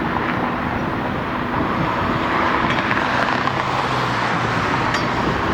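Steady road traffic noise: the rush of passing vehicles, with a low engine hum underneath.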